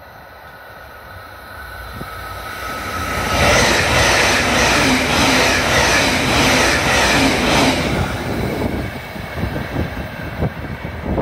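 Blue electric train passing through a station close by at speed: the noise builds as it approaches, is loudest for about four seconds with a rhythmic clatter of wheels over rail joints, then fades as it moves away.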